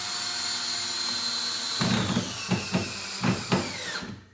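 Power drill driving a wood screw into plywood: a steady motor whine. About halfway in, a run of irregular knocks starts as the screw bites, and the motor slows and stops just before the end.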